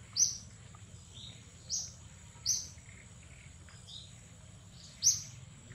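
A bird chirping: short, sharp, high chirps repeated irregularly, a second or so apart, some louder than others, over a thin steady high-pitched hum.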